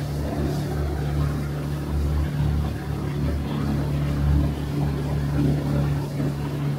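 Motorboat engine running steadily under way, a constant low hum over a continuous rush of noise.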